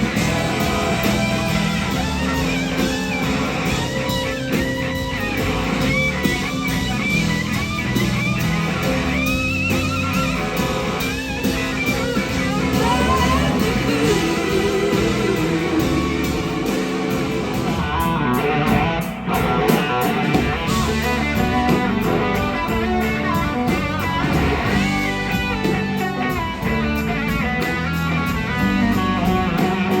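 Live rock-blues band playing, led by an electric slide guitar solo whose notes glide and bend in pitch over bass and drums.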